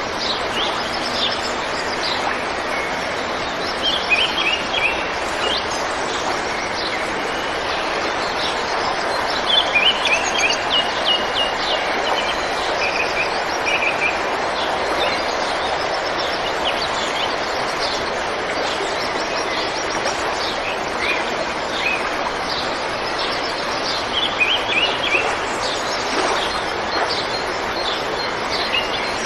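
River water flowing over rocks in a steady rush, with small birds chirping in short bursts of song over it several times.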